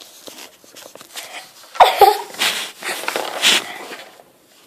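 Laughter and giggling in a run of breathy bursts, starting a little under two seconds in and fading out near the end.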